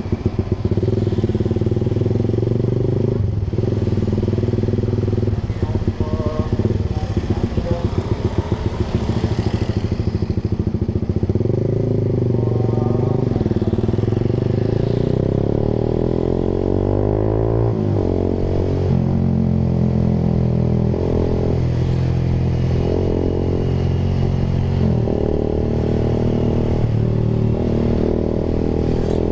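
Honda Sonic 150R's single-cylinder four-stroke engine, heard through a Proliner TR1R short aftermarket exhaust while riding. The engine pitch climbs steadily to a peak about eighteen seconds in and then drops sharply as the gear changes. After that comes a series of short rises and falls as the throttle is opened and closed.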